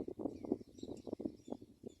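A dense crackling rustle that thins out over two seconds, with faint, short, high chirps of house sparrows.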